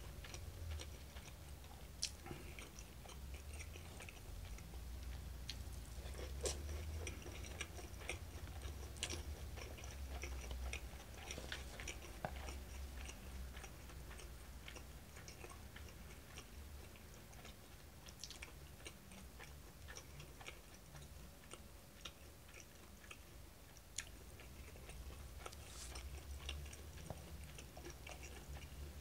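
Close-up chewing and mouth sounds of a person eating seafood tempura and rice, with scattered small clicks, over a low steady hum.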